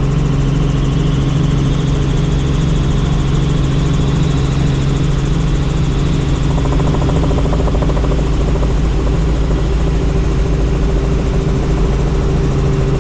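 Tour helicopter's engine and rotor running steadily: a constant, loud drone with a steady low hum.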